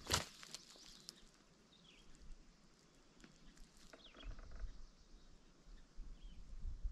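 One footstep on the trail right at the start, then a quiet forest with a few faint, short bird chirps.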